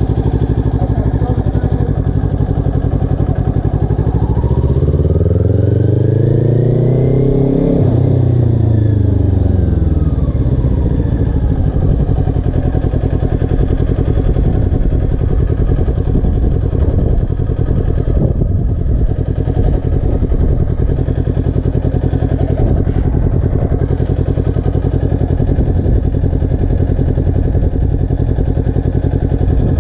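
Motorcycle engine revving up smoothly over a few seconds to swerve-test speed (20–25 km/h), then easing off, and running on with a steady low rumble.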